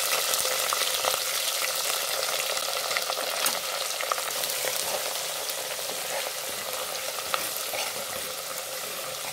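Pounded shallots and garlic sizzling in hot oil in a clay pot, stirred with a metal ladle that clicks sharply against the pot now and then. The sizzle softens slowly as the moisture cooks off.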